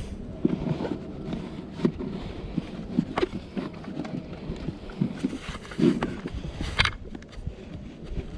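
Irregular knocks and clatter, uneven in timing, over a low rumble.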